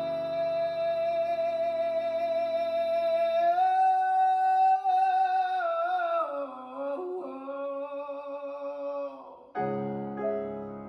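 Live rock music: a high wordless sung note held with vibrato over guitar chords. The guitar drops out about three and a half seconds in, and the voice carries on alone, bending down in pitch. A keyboard chord comes in sharply near the end.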